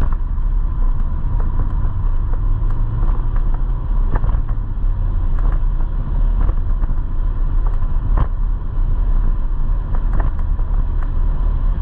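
Motorcycle on the move, its engine running under heavy, constant wind rumble on the microphone, with a steady whine and scattered sharp ticks.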